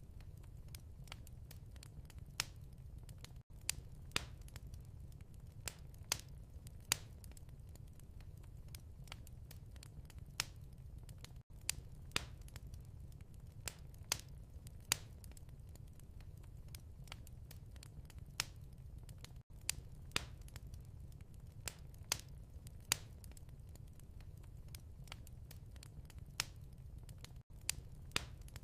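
Wood fire crackling in a fireplace: a steady low rumble of burning with irregular sharp pops and snaps. The sound cuts out for an instant about every eight seconds, as a looped recording does.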